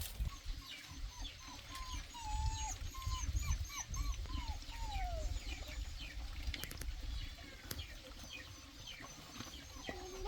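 Small animals calling: a run of short high calls for the first few seconds, some sliding down in pitch, over scattered fainter high cheeps and a low rumbling background.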